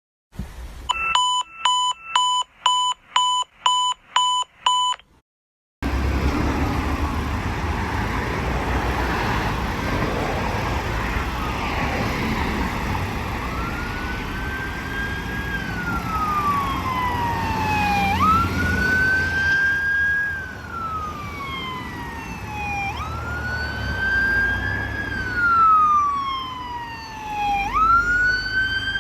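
About nine evenly spaced electronic beeps, then a short gap and the steady low rumble of a fire engine on the road. About halfway in, its siren starts wailing, each cycle rising quickly and falling slowly.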